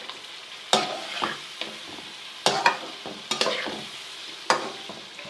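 Chicken korma masala with yogurt sizzling as it fries in a pot, stirred and scraped against the pot in sharp strokes every half second to second, cooking off the yogurt's water.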